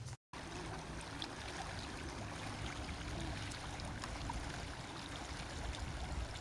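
Water at a lake shore, a steady rushing with a low rumble and a few faint ticks, cutting in after a split-second gap.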